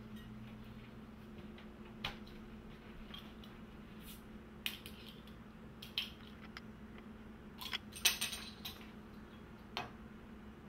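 Scattered light clinks and clicks of small hard objects, seven or so at uneven intervals with the loudest about eight seconds in, over a steady low hum.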